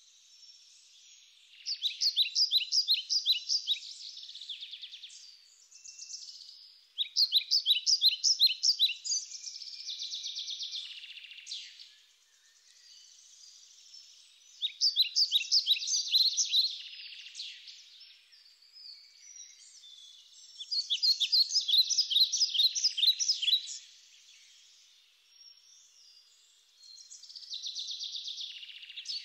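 A songbird singing loud bursts of rapid repeated notes, about two seconds each, four times, with a softer buzzy sound between the songs.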